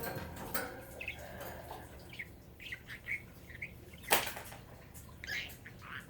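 Pet budgie making short, soft chirps, with one sharp knock about four seconds in.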